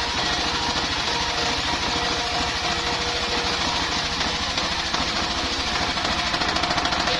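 Engine-driven circular sawmill running steadily, with a rapid knocking engine beat under a hiss.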